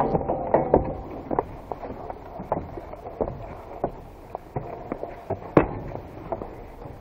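Footsteps and irregular knocks and clatters of people picking their way over debris, with one sharper knock about five and a half seconds in.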